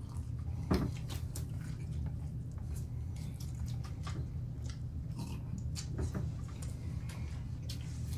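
A person chewing a mouthful of chili burger close to the microphone: a run of short, irregular mouth clicks, one louder about a second in, over a steady low hum.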